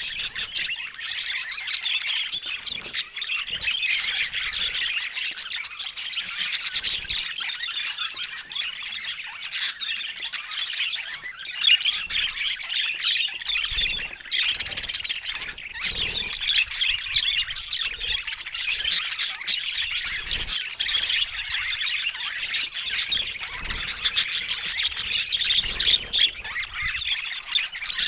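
Budgerigars chattering without pause, a dense mix of warbling chirps and short squawks.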